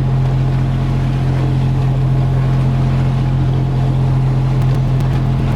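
A sailing yacht's inboard engine running steadily under way, a constant low hum with a wash of wind and water noise over it.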